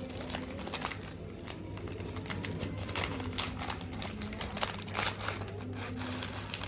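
Plastic snack sachets crinkling and rustling in irregular crackles as they are torn open and handled.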